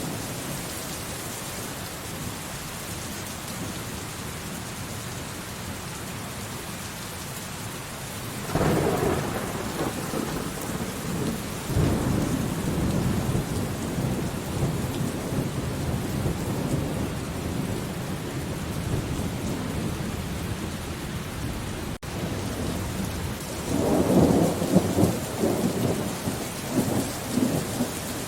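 Steady rain falling, with thunder rumbling twice: a long rolling peal starting about a third of the way in, and a second, crackling peal near the end.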